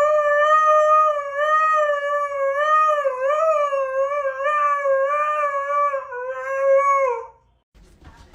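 A dog howling: one long, wavering howl of about seven seconds that drops in pitch as it ends.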